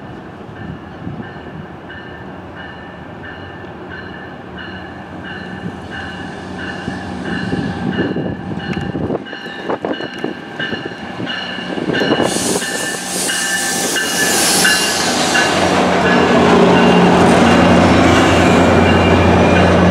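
Virginia Railway Express commuter train arriving: the locomotive's bell rings rhythmically as it approaches. About twelve seconds in a rush of high hissing wheel and rail noise joins. In the last few seconds the MP36PH-3C diesel locomotive passes close with a loud low engine drone.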